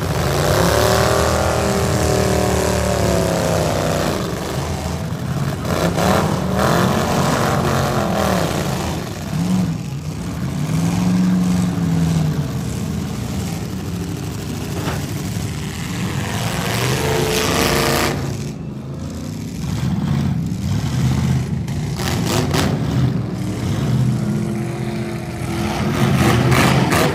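V8 demolition derby car engines running hard, revving up and down again and again as the cars drive and ram.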